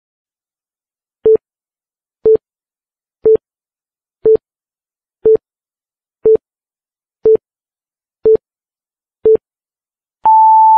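Countdown timer beeping: nine short electronic beeps of the same low pitch, one a second, then a longer, higher beep as the count reaches zero.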